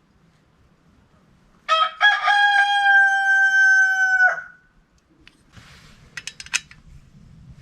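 A rooster crowing once: a stepped start, then a long held note that drops off at the end. A few short clicks follow near the end.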